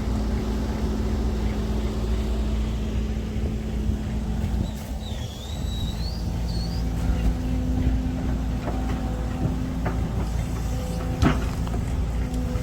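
Kobelco SK200-10 excavator's diesel engine running steadily, its pitch rising a little about seven seconds in as it takes more load, with a single sharp clank near the end.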